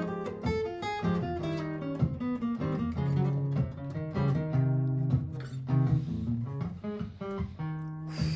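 Martin GPCPA4 acoustic-electric guitar played through a looper pedal: an improvised picked melody over looped, held low bass notes and chords.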